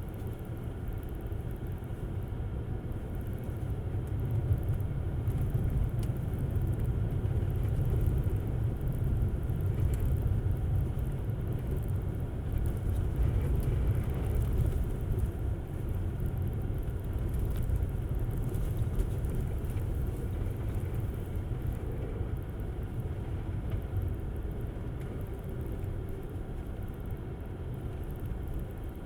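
Tesla Model S driving on snowy roads: a steady low rumble of tyre and road noise, growing louder a few seconds in and easing off a little near the end.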